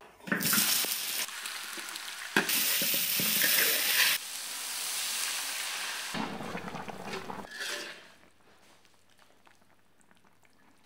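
Oxtail pieces sizzling in hot oil in a large iron wok, a loud hiss in several short cut-together segments, with a sharp clank about two and a half seconds in. About six seconds in, water pouring into the hot wok, then only faint sound for the last few seconds.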